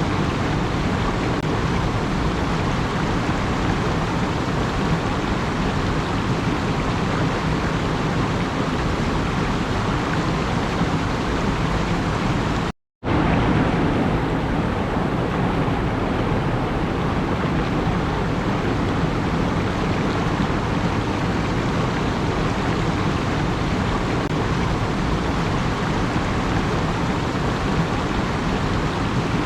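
Steady, even rushing noise with no distinct events, cutting out completely for a moment about thirteen seconds in.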